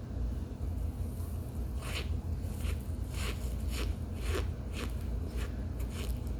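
Chewing a mouthful of baked cornstarch-and-baby-powder chunk: a run of short, squeaky crunches, about two a second, starting about two seconds in, over a steady low hum.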